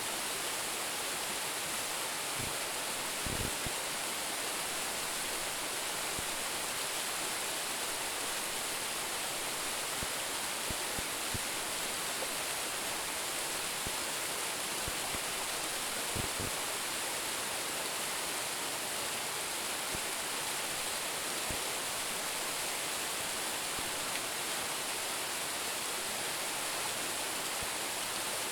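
Small waterfall, about 10 m high, falling steadily into its pool: an even, continuous rush of water, with a few faint low thuds about three seconds in and again about halfway through.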